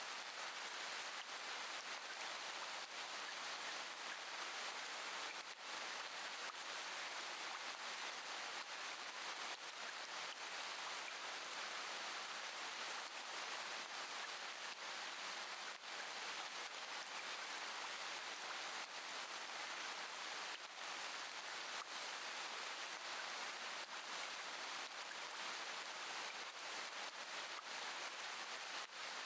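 Steady rain falling: an even hiss with many small drop ticks, with no thunder.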